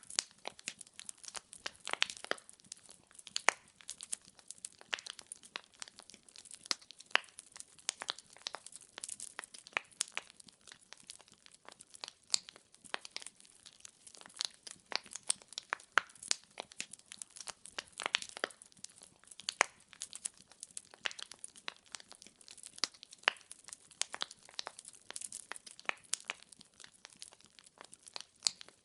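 Wood fire burning in a fireplace, logs crackling with a dense, irregular run of sharp pops and snaps.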